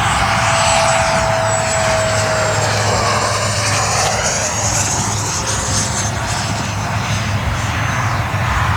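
Radio-controlled electric ducted-fan jet flying past: a steady rushing fan noise with a thin high whine that slowly drops in pitch as it goes by.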